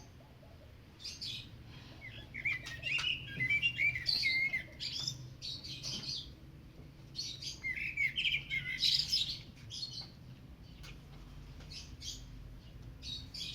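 Small birds chirping, with two spells of quick warbling song, starting about two seconds in and again about seven and a half seconds in.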